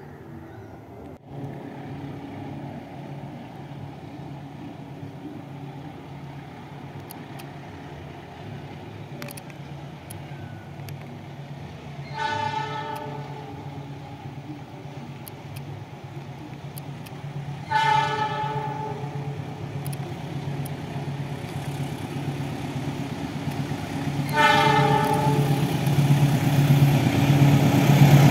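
Diesel train approaching with a steady engine drone that grows louder, sounding its horn in three short blasts about six seconds apart.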